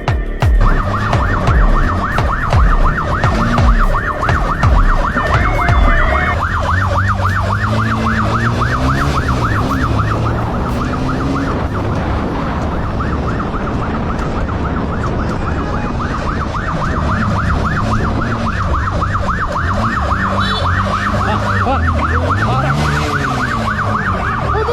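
Police siren in a fast, continuous warble, with a vehicle engine underneath rising and falling in pitch during a pursuit.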